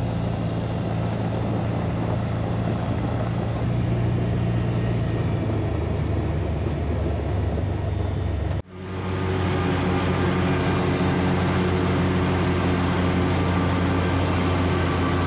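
Scag Cheetah zero-turn mower's Kawasaki engine running steadily under mowing load, with a sudden break about eight and a half seconds in before it carries on.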